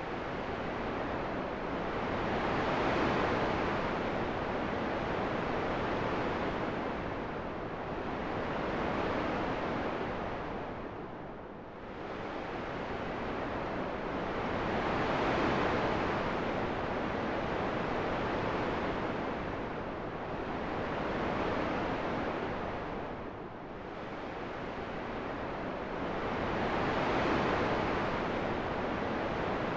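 Wind blowing in slow gusts: a steady rushing noise that swells and fades about every six seconds.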